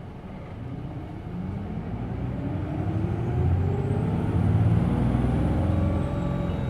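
Hino Blue Ribbon City Hybrid bus accelerating, heard from inside the cabin: the diesel engine revs up, rising in pitch and growing louder over the first few seconds. A faint high whine rises and falls in the middle.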